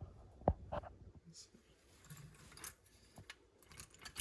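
Light knocks and clicks of Lionel tin-plate toy train cars being handled and set down side by side, the loudest knock about half a second in.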